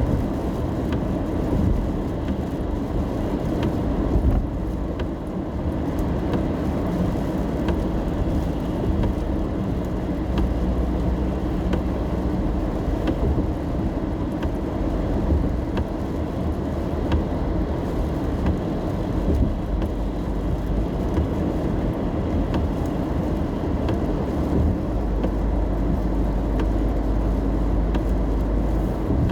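Car interior while driving in the rain: steady road and tyre noise with a low rumble that deepens about 25 seconds in, and faint scattered ticks of rain on the car.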